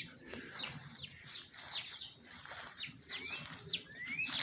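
Backyard songbirds chirping: a quick run of short, downward-sliding chirps, several a second, with a couple of rising calls late on.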